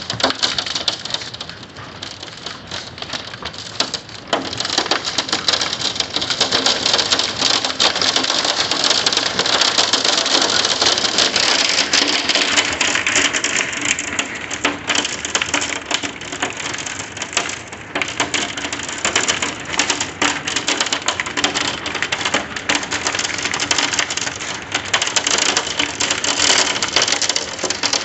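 Hail and heavy rain pelting a house and its window glass: a dense, continuous clatter of stones striking, heavier from about four seconds in.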